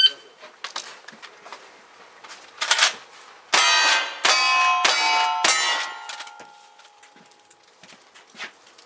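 Gunshots hitting steel targets, each hit ringing out with a metallic clang. Four loud hits come in quick succession a few seconds in, and their ringing dies away a second or so after the last one.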